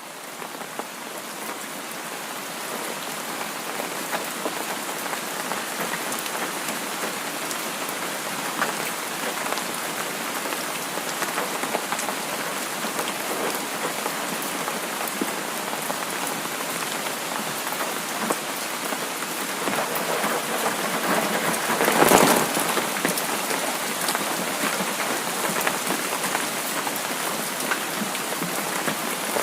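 Steady rain falling, a dense hiss of drops with scattered patters, fading in over the first few seconds. About two-thirds of the way through there is a brief, louder swell.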